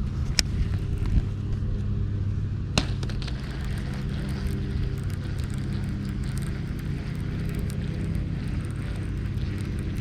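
Steady low mechanical hum, like a motor running, with two sharp clicks, one about half a second in and one about three seconds in.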